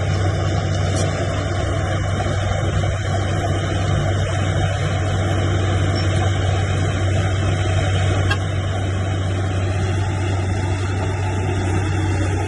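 Heavy diesel engine of earthmoving machinery running steadily at a constant pitch with a deep hum.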